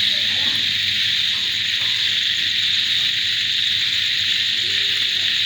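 Dense, steady chorus of crickets and other insects, a continuous high-pitched ringing, with faint frog calls beneath it.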